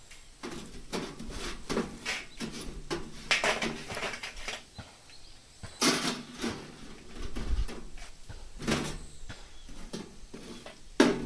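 A series of knocks, clatters and scrapes from objects being handled, irregular, with louder knocks about six seconds in and near the end.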